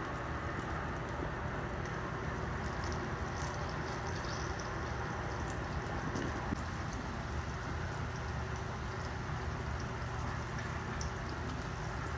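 Breaded green tomato slices frying in oil in an electric skillet: a steady sizzle with small crackles, over a low hum.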